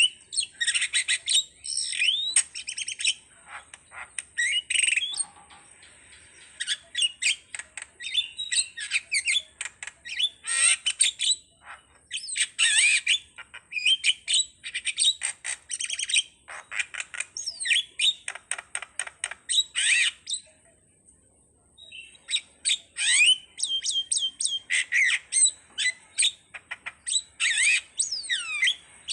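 A jalak (starling) singing a fast, varied song of chattering squawks, chirps and whistles, broken by a pause of about a second and a half about two-thirds of the way through.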